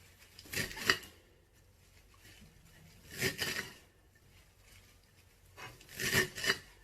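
Fresh parsley being cut in three quick clusters of crisp cuts, about two and a half seconds apart.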